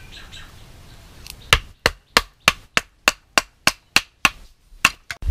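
Chopping: about a dozen sharp, evenly spaced strikes, roughly three a second, that stop suddenly near the end.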